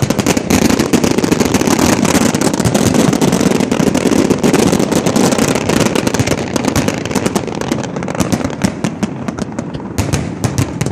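Fireworks display going off in a dense barrage of rapid crackling and popping. The bangs thin out to more separate cracks toward the end.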